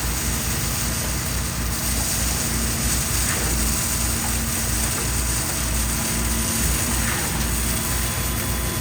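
Heavy truck engine running steadily with a rapid low throb and a steady hum over it, the kind of engine that powers the mixer and pump trucks at a concrete pour.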